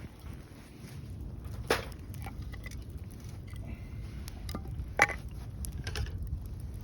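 Wood fire crackling, with two sharp pops, one about a second and a half in and a louder one about five seconds in, and fainter ticks between, over a low steady rumble.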